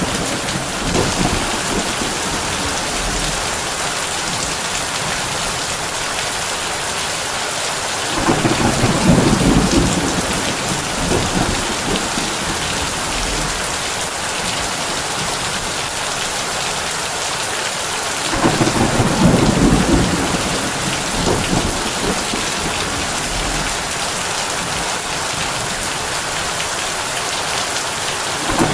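Heavy rain on a tin roof, a steady hiss, with low rolls of thunder that swell and fade about every ten seconds.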